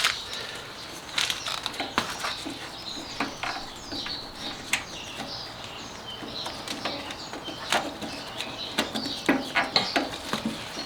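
Scattered clicks, taps and light rattles of hand tools and parts being handled while hose clamps are fitted, a few strokes a second, irregular.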